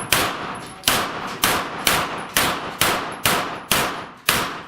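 A rapid string of pistol-calibre gunshots fired at steel targets, nine shots at an even pace of about two a second. Each is a sharp crack with a short ringing tail.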